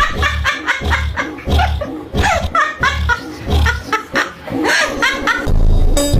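A bird giving loud, repeated short calls that bend up and down in pitch, over music with a heavy beat. The calls stop about five and a half seconds in and the music carries on alone.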